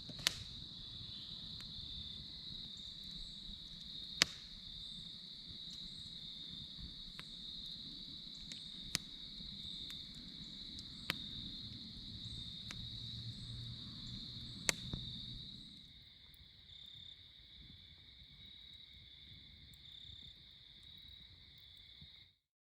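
Crickets trilling steadily in the evening, with a campfire popping sharply now and then, about five loud pops in all. A low background rumble fades out about two-thirds of the way through while the crickets carry on.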